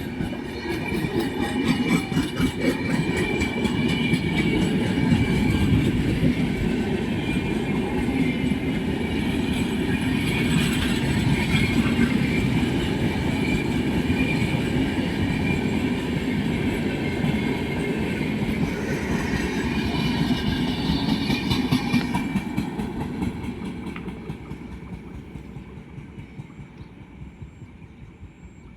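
Indian Railways express train running past at speed: a heavy rumble of wheels with a rhythmic clickety-clack over the rail joints and a thin high squeal over it. The noise fades steadily from about three quarters of the way through as the train moves off.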